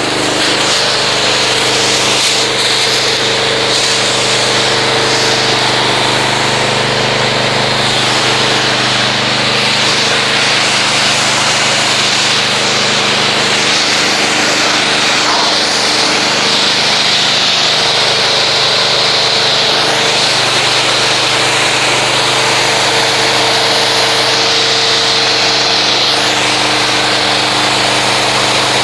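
Pressure washer running steadily with the hiss of its water spray, rinsing foam soap off a car.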